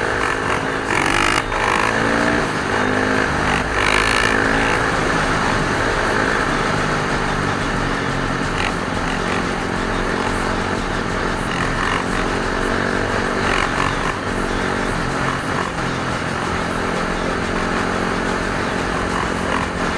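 Dirt bike engines running and revving, the pitch rising and falling throughout.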